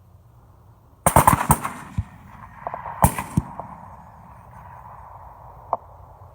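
Rapid gunfire during a night hunt: a quick volley of several shots about a second in, a single shot a moment later, then two more shots around three seconds in.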